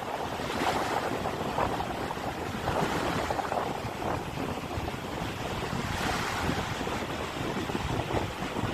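Sea surf washing on the shore, with wind buffeting the microphone in an uneven rumble.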